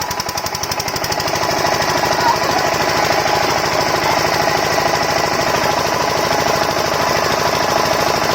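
8HP single-cylinder diesel water-pump engine running with a rapid knocking beat. The beat quickens and grows louder over the first second and a half as the engine picks up speed, then holds steady.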